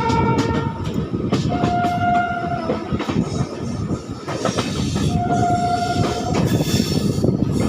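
Moving passenger train rumbling with wheel clicks over the rail joints, heard from aboard. A train horn sounds in steady blasts of about a second each: one ending just after the start, then two more at a lower pitch about three seconds apart.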